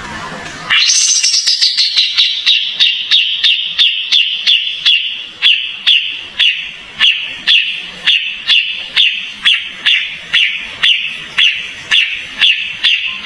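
Kapas tembak bird calling: one sharp, down-slurred note repeated at an even pace of about two a second, starting abruptly about a second in.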